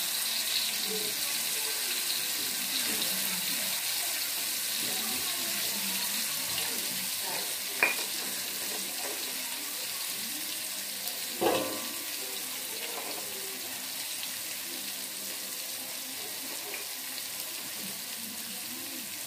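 Ground chili, garlic and shallot spice paste sizzling in hot oil in a wok, a steady hiss. Two sharp knocks come about eight and eleven and a half seconds in.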